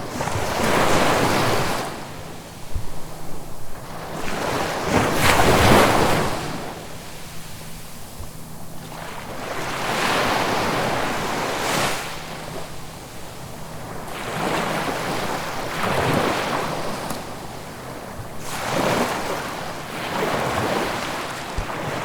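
Sea waves breaking and washing up the shore, one after another, every few seconds, with the rush rising and falling each time.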